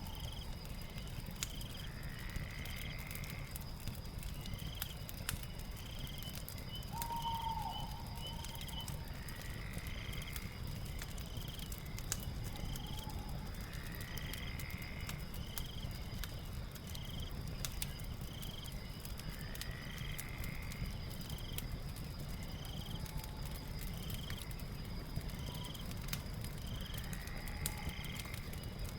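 Night nature ambience: a steady high insect trill and rows of short chirps, with a longer call repeating about every five or six seconds. Underneath, a fire crackles with scattered pops over a low steady hiss.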